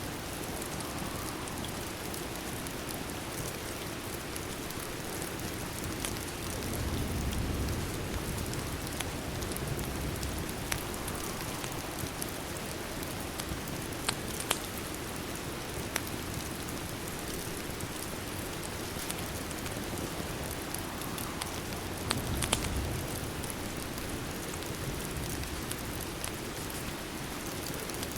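Steady rain ambience mixed with a fireplace, the rain a continuous even hiss with a few sharp crackling pops scattered through it. A low rumble swells up twice.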